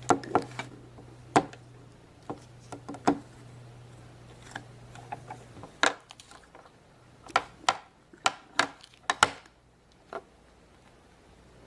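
Plastic Play-Doh popsicle mold being pressed shut and handled: a scatter of sharp, irregular clicks and knocks. A low steady hum underneath stops a little over halfway through.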